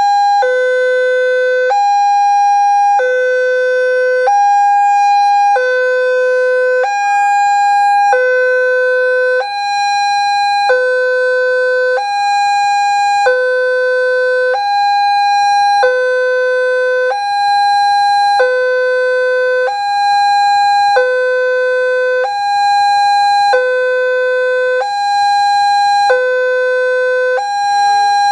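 Railroad level-crossing warning alarm sounding its electronic two-tone signal, a low and a higher tone alternating, each held about a second and a quarter. It warns that a train is approaching and the crossing is closed.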